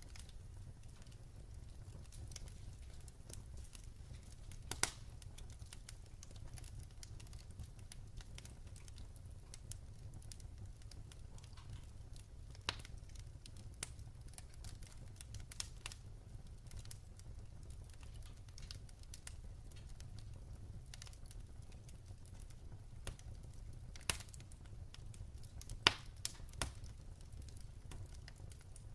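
Firewood burning in a fireplace: a low steady rumble with sharp crackles and pops every few seconds, the loudest pops near the end.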